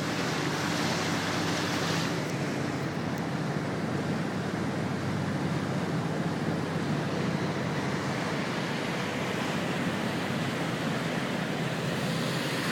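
Sea Ray motorboat underway: a steady low engine drone under a continuous rush of water and wind.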